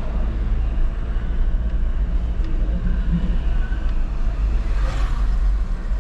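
Jeep Renegade diesel driving, heard from inside the cabin: steady, deep engine and road noise.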